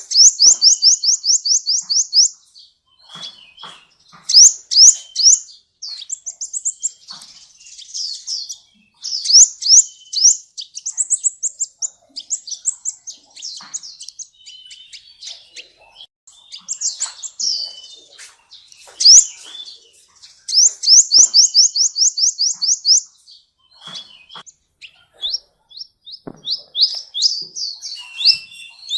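Sunbird singing loudly: fast high-pitched trills of quick down-slurred notes, about six a second, alternating with shorter chattering phrases.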